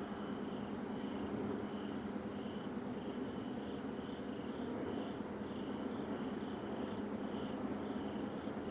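A steady low droning rumble of unknown origin, which the recordist describes as a loud roar coming from the sky. Over it, crickets chirp about twice a second.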